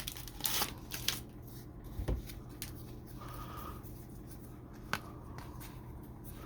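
Football trading cards being handled and slid against one another: a few soft clicks and rustles in the first two seconds and a sharper click about five seconds in, over a faint steady low hum.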